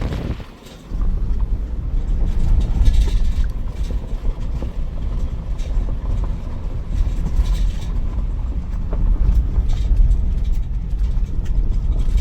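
Toyota Land Cruiser 4x4 driving over a rough dirt road: a continuous low rumble of engine and tyres, with scattered knocks and rattles from the bumps.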